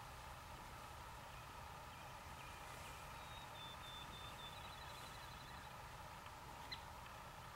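Quiet open-field ambience with a low steady rumble. A songbird sings a run of short high notes that speed into a quick trill, from about three to six seconds in. A single faint click comes near the end.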